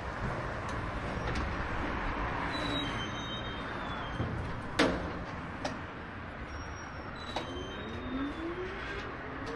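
Wind and road noise from a moving bicycle, mixed with street traffic, with scattered clicks and a sharp knock about five seconds in. Near the end, a couple of rising whines, like a motor speeding up.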